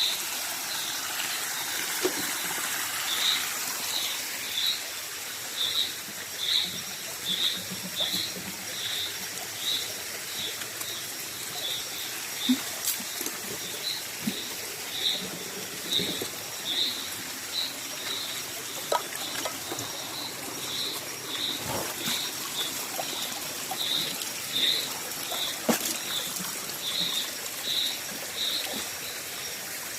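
Stream water trickling. Over it, an animal calling at night in short, high chirps repeated about twice a second.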